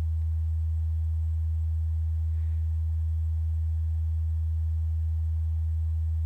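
A steady low hum that holds one pitch without change, loud over a faint hiss.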